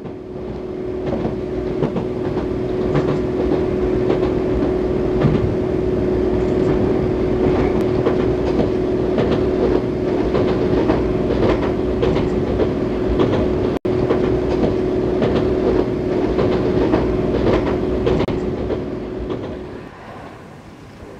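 A train running along the track: a steady motor whine with irregular clicking of the wheels over rail joints. It breaks off for a split second partway through and fades out near the end.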